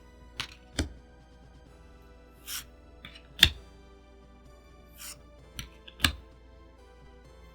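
Trading cards being handled: several sharp taps, the loudest about three and a half and six seconds in, and a couple of short swishes of cards sliding, over soft background music with held tones.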